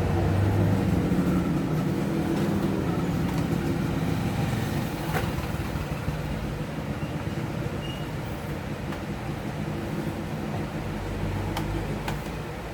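A motor vehicle engine runs steadily as a low rumble and slowly fades away.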